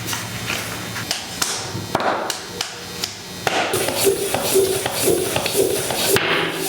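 Scattered taps and clicks of a bicycle tire and wheel being handled as the tire is worked onto the rim.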